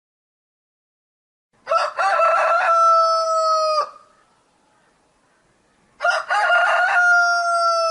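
A rooster crowing twice, each crow about two seconds long, with a stuttering start and a long held final note.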